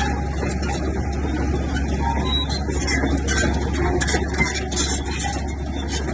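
Bulldozer's diesel engine running steadily with a deep drone, with constant rattling and clanking of metal.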